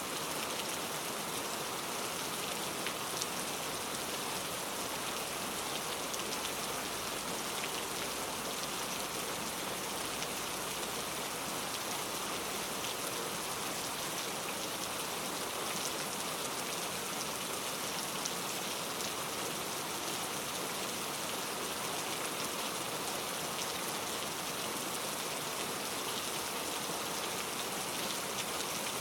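Steady rain falling, an even hiss with fine patter of raindrops.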